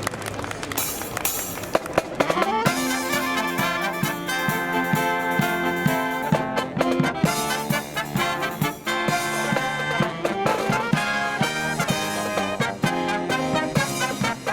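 Marching brass band playing a Christmas medley: a rising brass sweep about two seconds in, then full trumpet and trombone chords over regular drum beats.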